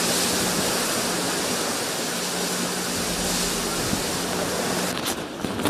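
Heavy hurricane rain and wind on a street, a dense steady hiss with a faint low hum beneath. About five seconds in the sound changes abruptly, thinning out into scattered clicks.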